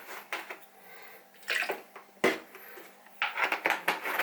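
Milk being poured into a mug of tea in a few short splashing pours, with a single sharp knock about two seconds in.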